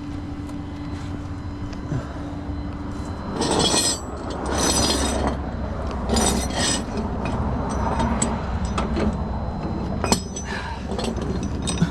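A vehicle engine running steadily under bursts of metallic rattling and clinking, with sharp clinks near the end.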